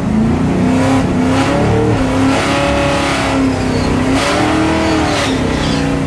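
Small-block Ford 302 V8 of a 1984 Mustang bracket car, heard from inside the cockpit: it climbs in pitch in the first half-second, then runs loud at high revs, fairly steady with a few brief dips.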